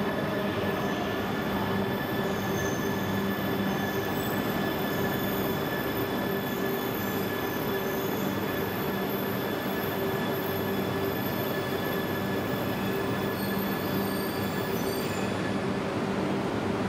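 E926 'East i' Shinkansen track-inspection train running past at low speed as it pulls out: a steady running noise of wheels and running gear with a steady electrical hum, the hiss easing slightly near the end.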